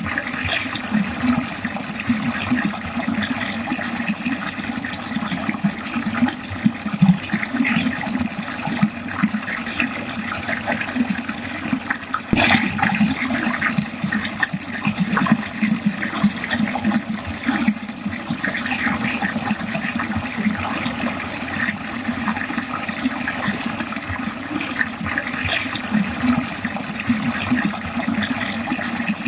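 Water draining steadily, a continuous flow with a fine bubbling texture, and one brief click about twelve seconds in.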